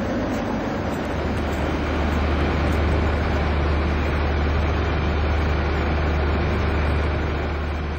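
O gauge model train running along the track: a steady low rumble and hum that swells from about a second in and eases off near the end, as if the train passes close by.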